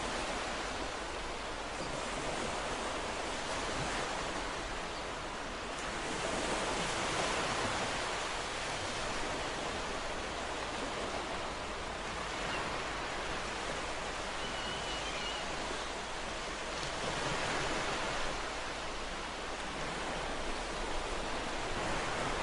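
Ocean surf washing in continuously with a steady hiss, swelling louder twice as waves break, about ten seconds apart.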